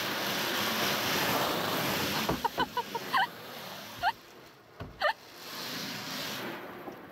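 Water spraying from a hose during a car wash: a steady hiss that drops away a little over two seconds in. After it come several short, high squeaks, a quick cluster and then two single ones.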